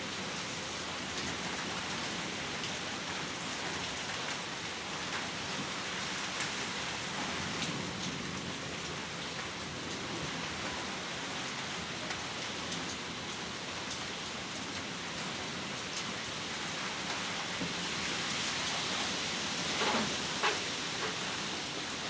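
Heavy rain falling steadily, a dense even hiss of drops hitting surfaces, with a couple of sharper taps near the end.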